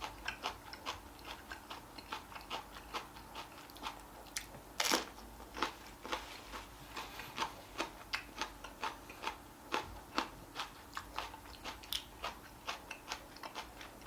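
Close-miked chewing while eating: a quick, irregular run of small wet mouth clicks, with a louder bite about five seconds in.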